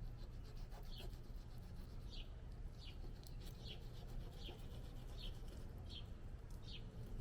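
A bird calling over and over, a short falling chirp about once or twice a second, over a steady low rumble.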